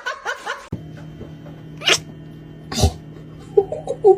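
A pet's short calls over background music, with two louder sudden noises in the middle.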